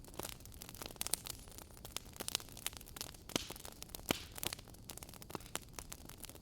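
Fireplace fire crackling: irregular sharp pops and snaps, several a second, over a steady low hiss.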